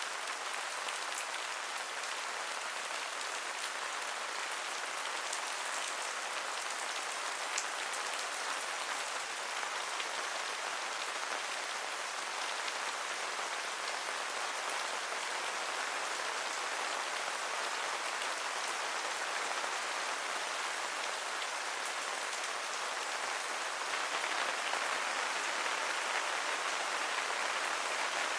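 Steady rain falling on surfaces, a continuous even hiss with a few distinct drop ticks, growing slightly heavier near the end.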